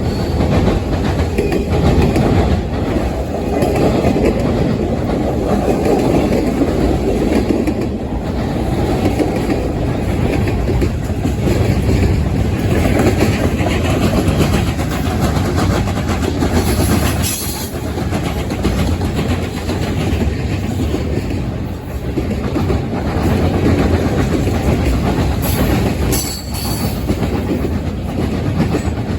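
Norfolk Southern train's cars rolling past, a steady loud rumble of wheels on rail with clickety-clack over the rail joints. There are brief high-pitched wheel squeals a little past halfway and again near the end.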